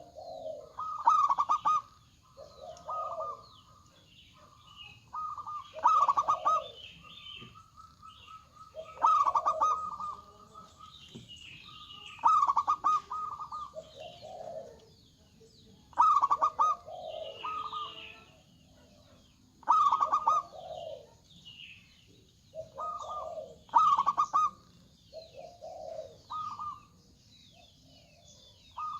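Zebra doves (perkutut) singing: rolling, rapidly pulsed cooing phrases repeated every few seconds, one voice higher and one lower answering each other. Smaller birds chirp faintly in the background.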